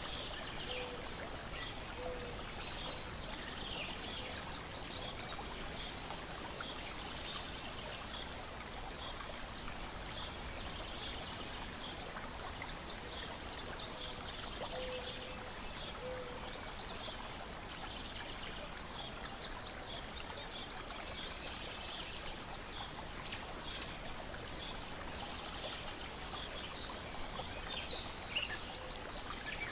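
Lake water lapping steadily against a shore with birds chirping in the trees. A wood fire crackles, with a few sharp pops near the end.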